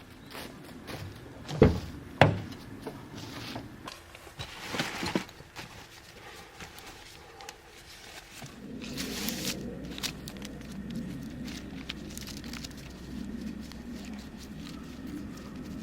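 Two sharp knocks about two seconds in, among scattered rustling and handling noises, then from about halfway a steady rustling like footsteps through dry leaves.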